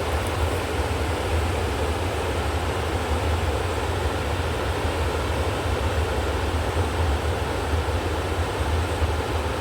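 Steady rush of flowing river water, with a strong low rumble under it and no change throughout.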